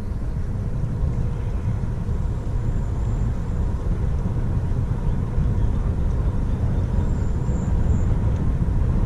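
A steady low rumble of wind buffeting the microphone while riding a bicycle along a trail.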